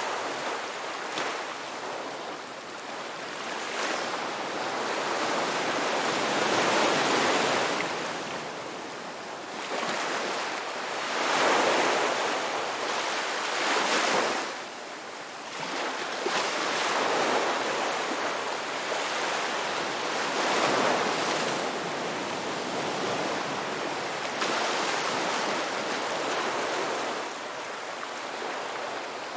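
Ocean waves breaking on a beach, a steady wash of surf that swells and falls back every few seconds.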